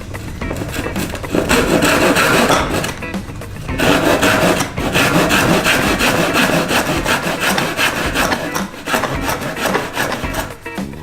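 Rough scraping and rubbing of a cardboard shipping box being worked open, in two long stretches of rasping noise.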